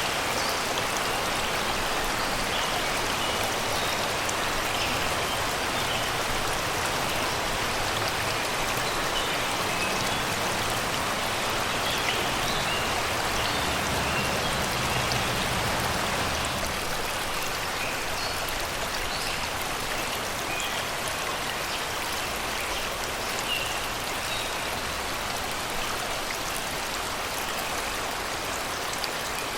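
Shallow river water rushing and babbling over rocks and stones, a steady even sound, with short bird chirps scattered throughout.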